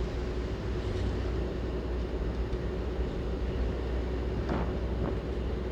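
Steady engine and road noise of a vehicle driving slowly uphill on a mountain road, with a steady hum and two light knocks near the end.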